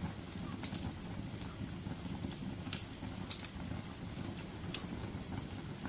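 Wood fire crackling: a steady low rumble of burning flames with a few sharp, scattered pops from the burning wood.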